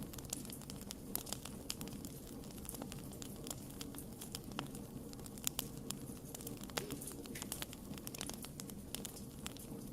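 Wood fire crackling: irregular sharp pops and snaps over a steady low rumble of the burning, with one louder pop about halfway through.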